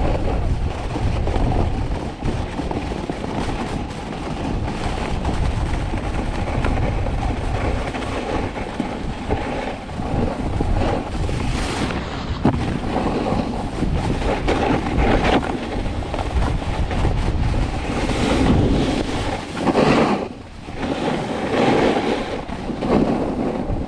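Snowboard sliding downhill on groomed snow: a continuous scraping rush of the board's base and edges, with wind buffeting the microphone. Several louder swells of edge scraping come in the last third, as the board carves turns.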